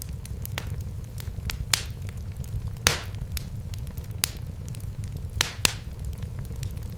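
Wood fire crackling: irregular sharp snaps and pops, with several louder pops, over a steady low rumble.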